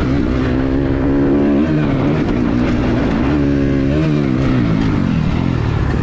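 Dirt bike engine under riding load, its pitch climbing and dropping as the throttle is worked, with a marked rev up and back down about three and a half seconds in.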